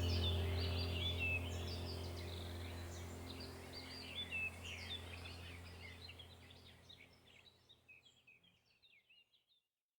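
Background soundtrack of birds chirping over a low, steady drone, fading out gradually and gone by about two-thirds of the way in.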